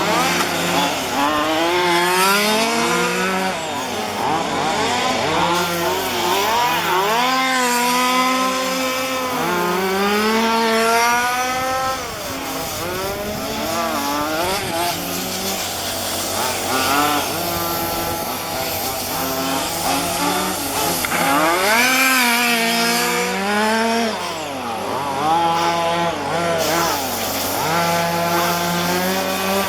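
Several 1:5-scale petrol RC cars' small two-stroke engines running hard, revving up and down every few seconds as they race, with two or more engines often heard at once at different pitches.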